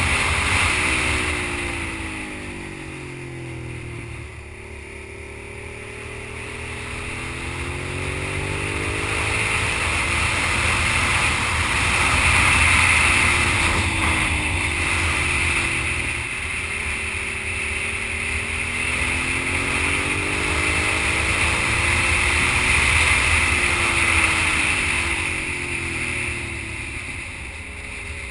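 Sport motorcycle engine running while riding through a series of curves, its pitch falling and rising several times as the rider rolls off and gets back on the throttle, over a steady hiss.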